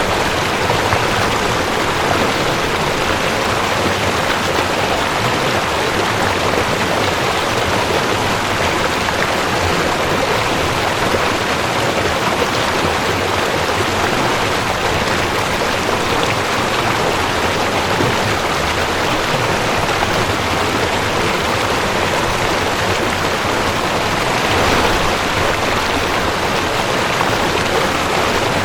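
Mountain stream rushing over rocks, a steady, even flow of water noise.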